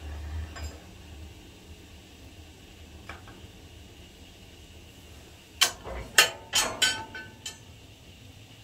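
A quick run of about six sharp metallic clinks and knocks a little past the middle, a couple of them ringing briefly, over a low steady hum.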